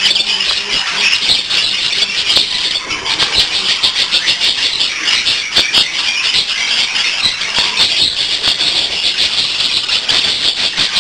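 A flock of budgerigars chattering all at once, a steady dense stream of fast high chirps and squeaks.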